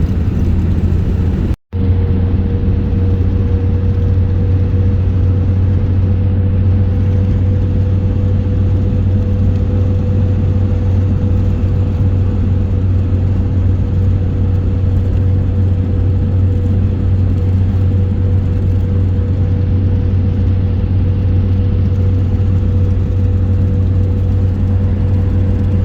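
A moving road vehicle's engine and road noise: a steady low drone with a constant higher hum over it. It cuts out for an instant about two seconds in.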